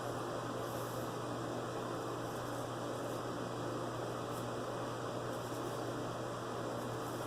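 Steady low electrical hum with an even hiss, with a few faint, brief high-pitched scratches.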